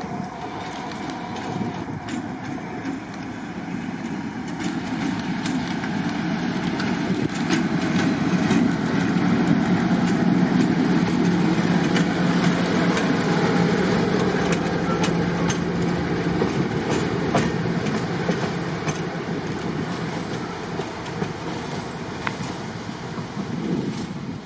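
Diesel train passing: its engine note grows louder to a peak about halfway through and then fades, with wheels clicking over the rail joints.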